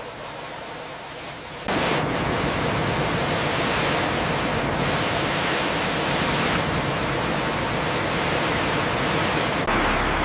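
A loud, steady rushing hiss that starts abruptly about two seconds in, over a fainter hiss; near the end it gives way to a low steady hum.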